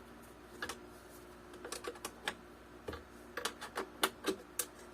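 Irregular light metallic clicks and taps from a spanner being worked on a nut and bolt. They are sparse at first and come more quickly from about three seconds in, over a faint steady hum.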